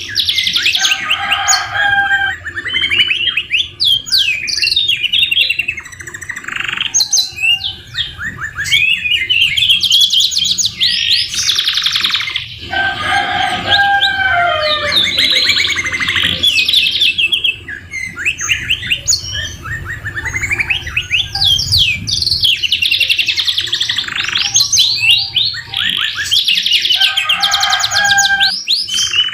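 Domestic canary singing a long, continuous song of rapid trills and rolling phrases, with brief breaks between phrases. Its song is laced with phrases copied from the white-rumped shama (murai batu).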